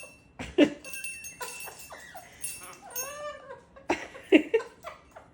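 A pet parrot playing roughly: two sharp knocks about half a second and four seconds in, and one short call with a rising-then-falling pitch about three seconds in.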